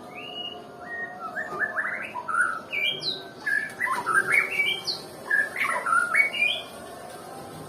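White-rumped shama (murai batu) singing: a rapid run of varied clear whistled notes that leap up and down in pitch, starting about a second in and stopping shortly before the end.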